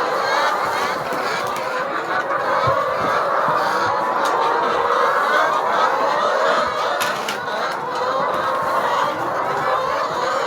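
A flock of chickens clucking, many calls overlapping into a steady, continuous din.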